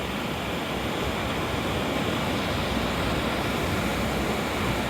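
Steady rushing noise on a footbridge over a busy seafront road, a mix of road traffic, rough surf and wind, with no single sound standing out.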